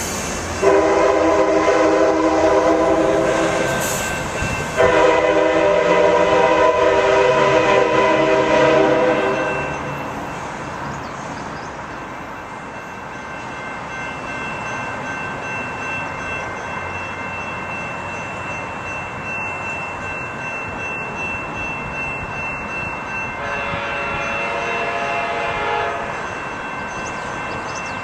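Amtrak Surfliner's K5LA air horn sounding two long blasts back to back, then after a stretch of the train running past, a shorter, quieter third blast near the end.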